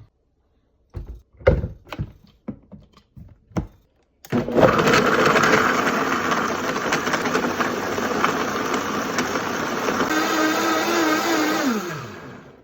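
Several short knocks, then a countertop blender starts about four seconds in and runs loudly, blending a smoothie of fruit and liquid. Near the end its motor winds down with a falling pitch and stops.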